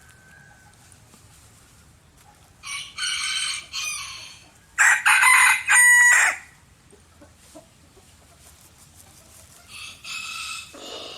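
Chicken calls: a loud crow from a rooster about five seconds in, with shorter calls a couple of seconds before it and a quieter one near the end.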